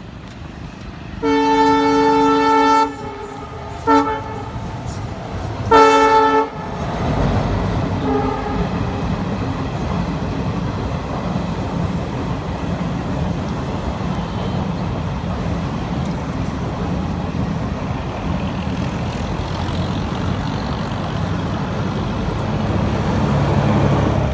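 WDM-3D diesel locomotive's air horn: a long blast, a short toot and a third blast. Then the train passes at speed with steady running noise from the locomotive and coaches, which swells slightly near the end.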